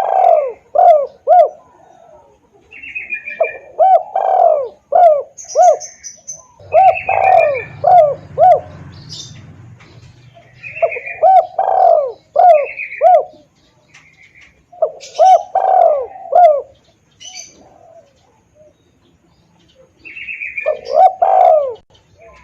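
Spotted dove cooing, played as a bird-hunter's lure call: about six phrases of several quick arched coos each, separated by pauses of one to a few seconds. Short high chirps from smaller birds sound between the phrases.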